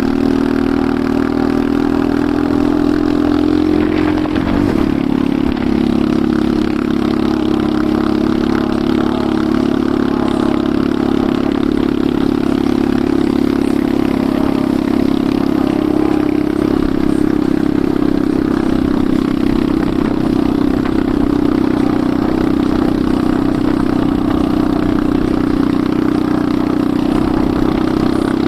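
Enduro motorcycle engine running steadily while riding. The engine note shifts about four seconds in, then holds steady.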